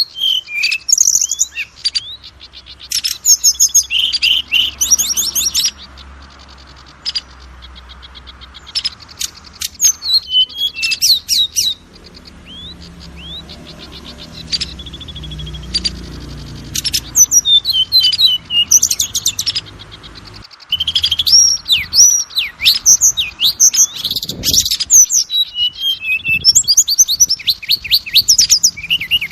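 Oriental magpie-robin singing a varied song of whistles, rapid trills and sweeping harsh notes, delivered in bursts. It thins out to scattered notes for several seconds in the middle, then turns dense and loud again toward the end.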